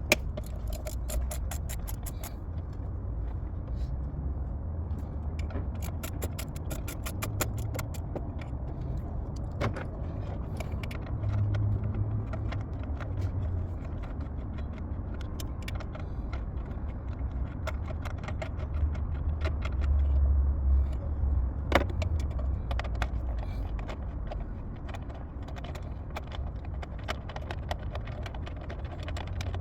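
Hand tools at work on an engine: quick, even runs of ratchet-wrench clicking and scattered metal clinks, over a steady low rumble.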